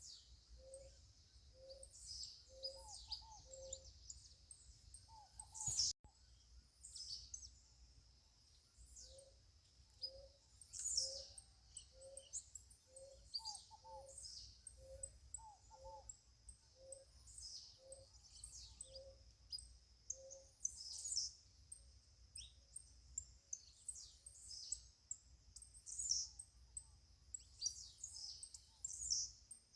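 Birds chirping and twittering, many short high calls overlapping, over a low hooting note repeated about twice a second in long runs. A faint low rumble runs underneath, and there is one sharp click about six seconds in.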